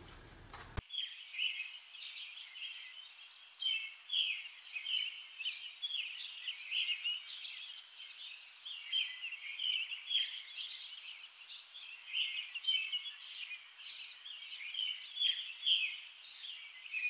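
Birds chirping: many short, high calls overlapping in a steady stream, starting abruptly about a second in.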